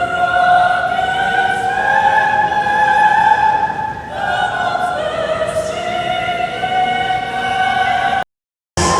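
Operatic singing in long held notes, changing note about four seconds in. It cuts off abruptly shortly before the end.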